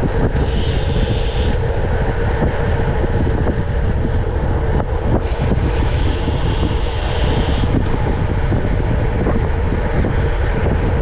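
Wind rushing over the microphone of a camera carried on a moving bicycle, with the rumble of the ride under it, steady and loud. A higher hiss joins it twice: briefly about half a second in, and again for a couple of seconds from about five seconds in.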